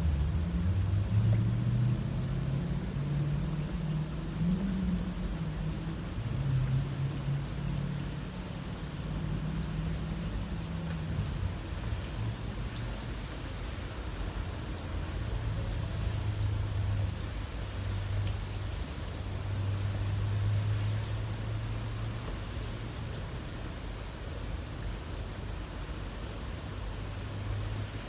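A continuous, steady high-pitched insect chorus, with a low, uneven rumble underneath that is strongest in the first half and then fades to a fainter low hum.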